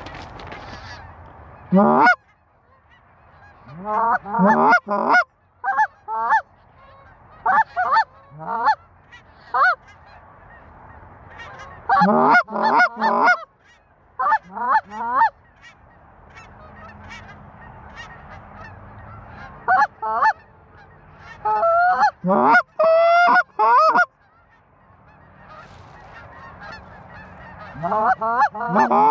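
Goose calling: groups of short, sharply rising honks and clucks, two to five at a time in quick runs with pauses between, blown on a hand-held goose call to bring in geese.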